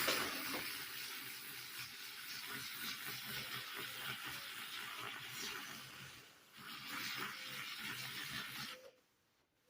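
Zulay handheld milk frother whisking whole milk: a steady churning liquid noise over a low motor hum. It eases off about six seconds in, picks up again, and stops suddenly near the end.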